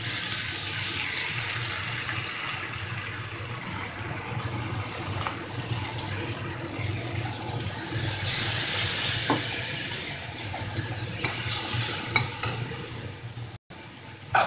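Ginger-garlic-chilli paste sizzling in hot mustard oil with fried onions in a metal kadai, stirred and scraped round by a metal spatula with a few clinks against the pan. The sizzle swells for a couple of seconds past the middle.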